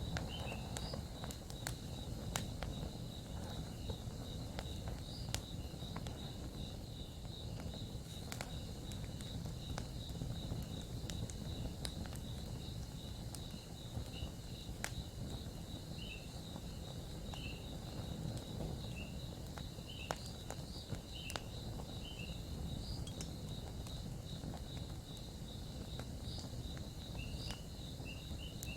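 Campfire crackling, with scattered sharp pops over a low steady rumble. Crickets chirp continuously behind it.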